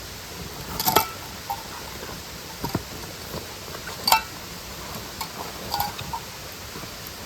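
A few sharp clinks and knocks, some with a short metallic ring, as camp gear is handled, the loudest about a second in and again about four seconds in. Underneath is the steady rush of a mountain stream and waterfall.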